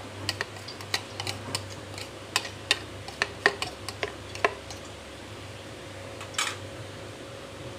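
Metal kitchen utensils clinking and tapping on cookware: a quick, irregular run of sharp clicks over the first four seconds or so, then one brief swish about six seconds in, over a steady low hum.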